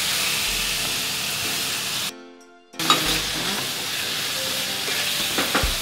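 Vegetables and shiitake mushrooms sizzling in hot oil in a saucepan with a steady hiss. The sound cuts out for under a second about two seconds in, then comes back. A couple of light knocks come near the end.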